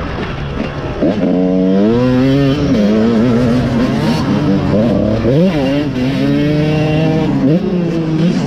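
Dirt bike engine revving on a motocross track. The pitch climbs sharply about a second in, then rises and falls repeatedly as the rider works the throttle, with a quick dip and climb in the middle.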